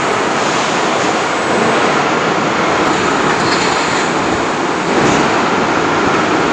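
Steady, loud machinery din of a truck assembly line, a constant roar with faint ticks and clanks on top.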